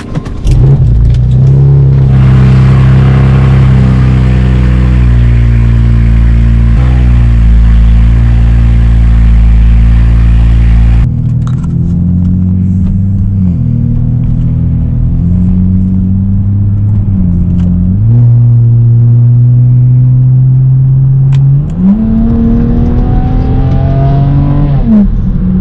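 BMW E92 335i's twin-turbo N54 straight-six, fitted with upgraded turbos and downpipes, starts up about half a second in and runs at a steady fast idle. From about halfway the idle wavers with small dips. Near the end a rev climbs over a few seconds and drops back.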